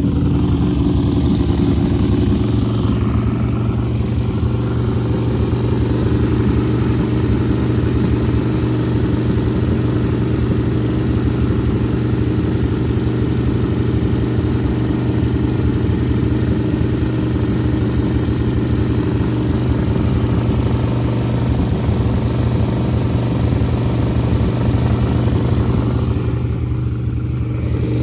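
A vehicle engine running steadily with road noise, as when driving at an even speed. The hum holds one pitch throughout.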